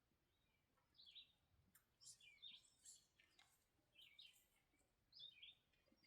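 Faint songbirds singing: short, high chirping phrases, one about every second.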